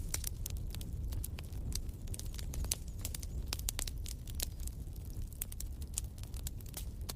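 Wood fire in a fireplace crackling, with frequent sharp irregular pops over a steady low rumble of the flames.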